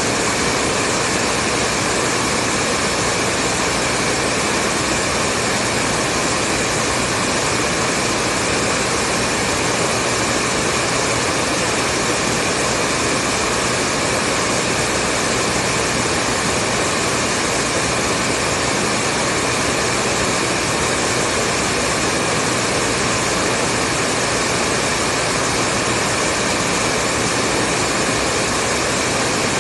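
Hair dryer running continuously at a steady speed, an even rushing hiss of blown air over a faint constant motor hum.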